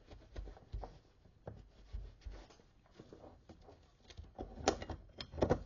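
Quiet handling knocks, then a short clatter of metal and fibre plates about four and a half seconds in as the clutch plates fall out of the Sturmey Archer gearbox's clutch centre.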